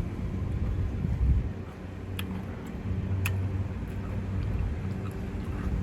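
Low steady hum of an idling vehicle, with a few faint sharp clicks.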